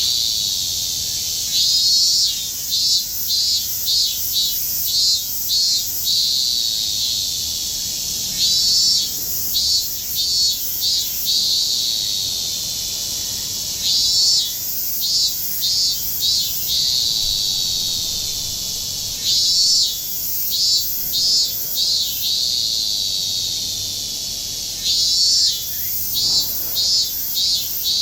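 Cicadas singing: a steady high buzz, over which one cicada repeats a loud phrase of pulsed calls ending in a falling drawn-out note, about every five to six seconds.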